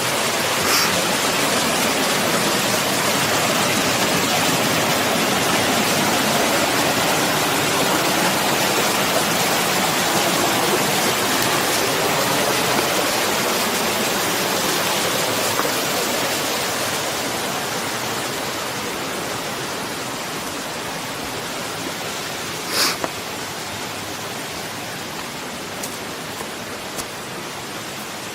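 Steady rush of water from a mountain stream and falls, growing gradually fainter in the second half. A single brief click sounds near the end.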